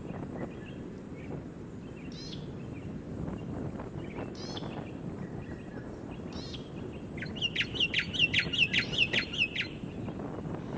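A bird calling a quick run of about eleven short, falling notes, roughly five a second, starting about seven seconds in and lasting around two seconds, with a few faint single chirps earlier, over a steady low outdoor rumble.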